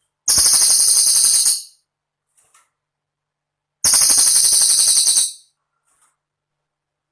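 Cililin bird song: two rapid, very high, jingling trills, each about a second and a half long, with a silent pause between them.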